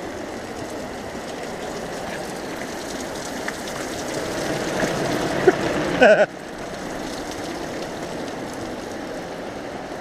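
Steady rushing noise of water, swelling slowly, with a brief louder sound about six seconds in. After that the rushing drops suddenly to a quieter steady level.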